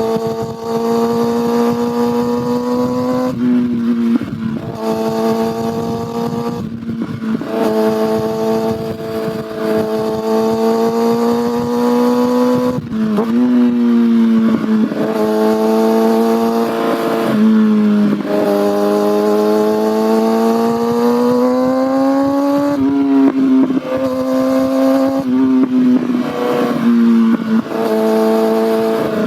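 Kawasaki ZX-6R inline-four sport-bike engine and exhaust under way. The pitch climbs steadily in each gear and drops at each of several gear changes as the bike pulls up through the gears.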